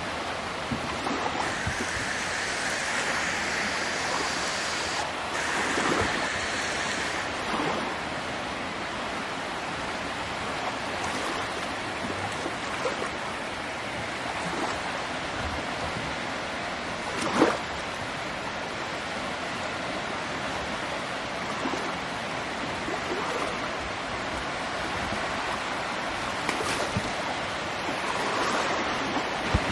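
Steady road noise of a car driving: tyre roar and wind as an even rushing hiss, with one brief thump about seventeen seconds in.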